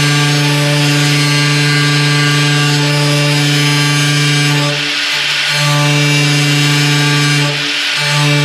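High-speed power grinder running with a steady whine and hiss while cutting away sheet metal around a car body's old door-hinge mount. Its note dips briefly about five seconds in and again near the end as it bites in.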